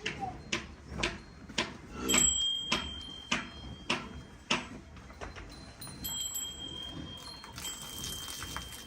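Hand milking a cow: streams of milk squirting into a pail in a steady rhythm of about two squirts a second, fading out about halfway through.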